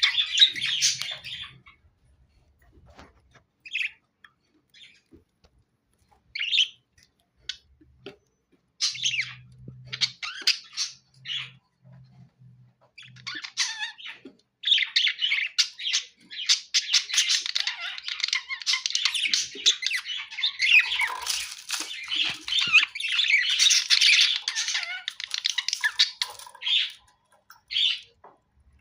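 Budgerigars chirping and squawking: scattered short calls with gaps for about the first half, then almost unbroken chattering until near the end, followed by a few more short calls.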